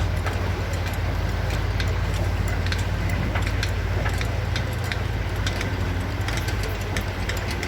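Demolition site machinery: a steady low engine rumble with many scattered sharp clinks and knocks.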